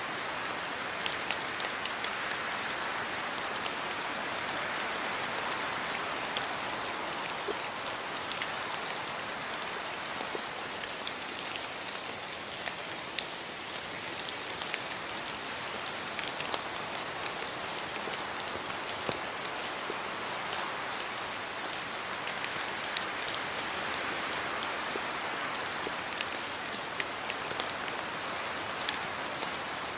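Steady rain falling, with many sharp ticks of single drops striking scattered through it.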